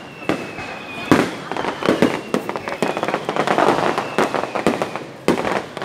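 Fireworks going off: a loud bang about a second in, then a dense run of crackling pops and further bangs, with another sharp bang near the end.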